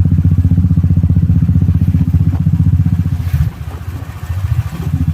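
Royal Enfield Classic 350's single-cylinder engine thumping steadily through a loud aftermarket silencer while riding. Past the halfway point the thump drops in level for about a second, then picks up again.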